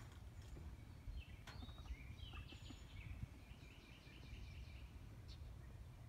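Faint high bird chirps and a quick trill of repeated notes from about two seconds in, over a low outdoor rumble, with a couple of faint clicks.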